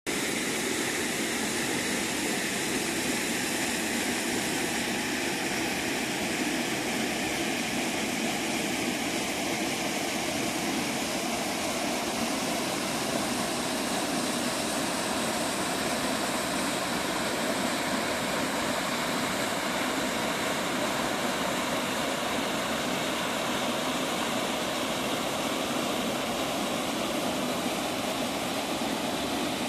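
Waterfall: falling water rushing steadily, an even roar with no change in level.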